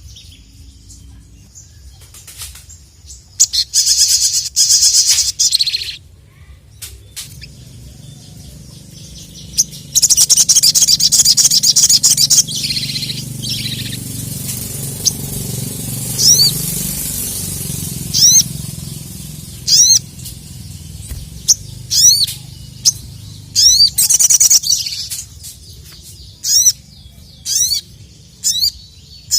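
Sogok ontong (sogon) songbird singing: loud, fast high trilled bursts lasting a few seconds each, then a string of short rising whistled notes repeated about once a second.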